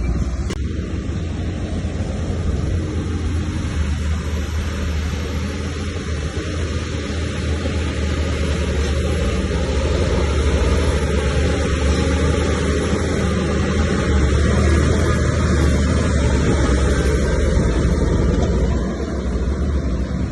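Heavy diesel earthmoving machinery running, a steady low rumble that eases slightly near the end.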